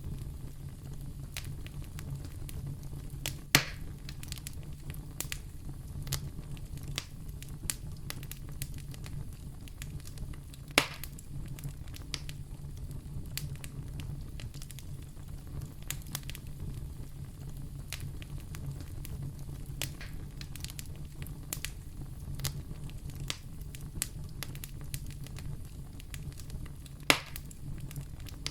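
Fire burning in a fireplace, crackling with frequent small ticks and three louder pops, over a steady low rumble.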